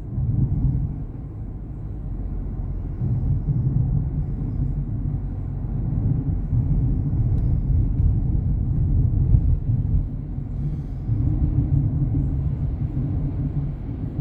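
Low, steady vehicle rumble of engine and road noise, swelling and easing slightly.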